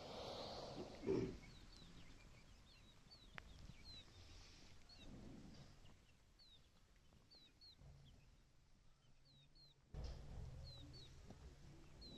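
Faint birds chirping: short, high, downward-sliding chirps repeated every second or so. A brief louder, lower sound comes about a second in.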